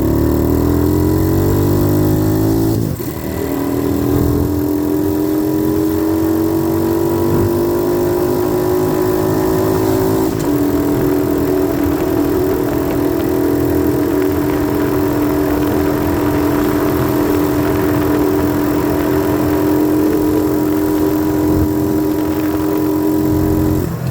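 90cc dirt bike engine under way. The revs climb, drop at a gear change about three seconds in, pick up again, shift once more about ten seconds in, then hold a steady cruising note.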